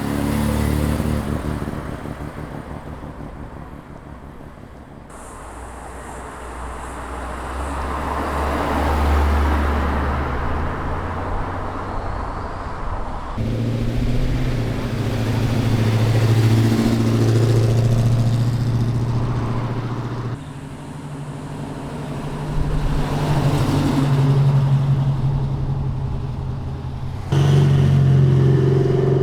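Cars driving away one after another, their engines running at fairly low revs and swelling louder and fading as each passes. The engine note changes abruptly several times as one car gives way to the next.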